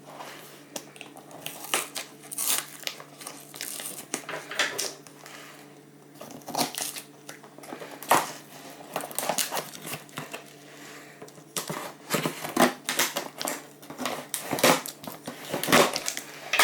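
Product packaging being opened and handled: irregular rustling, crinkling and clicking of cardboard and plastic wrapping in quick bursts.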